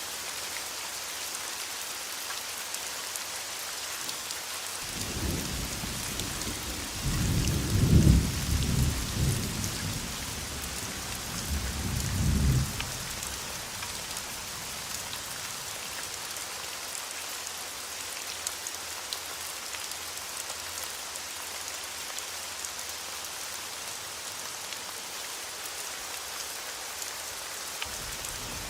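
Steady heavy rain with a long roll of thunder rumbling from about five seconds in, peaking twice before fading around thirteen seconds; another rumble begins just at the end.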